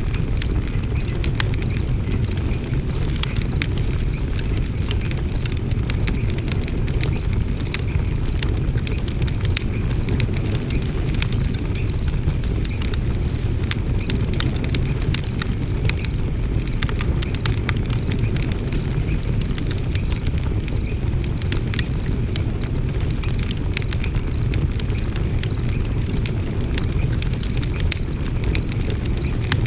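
Wood fire burning in a Tokyo Craft Macrite fire pit, crackling with frequent sharp pops over a steady low rumble. A faint, evenly repeating high chirp runs underneath.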